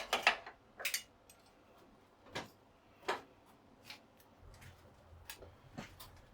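Scattered sharp metallic clicks and clinks of hand tools working on a 50cc motorcycle's battery cage as it is unfastened, a few strong ones in the first three seconds, then fainter taps. A faint low hum comes in about two-thirds of the way through.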